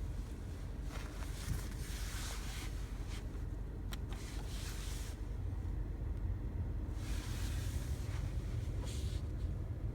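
Mercedes-Benz CLA180 (W117) running, heard as a steady low rumble, with stretches of hiss about a second in and again around seven seconds in.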